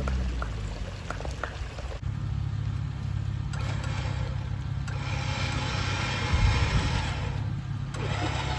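A vehicle's engine runs with a steady low rumble. From about the middle to near the end, a rushing noise rides over it.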